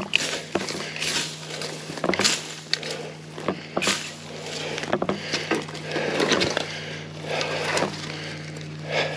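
Footsteps crunching and snapping through dry brush and twigs, with irregular cracks and rustles.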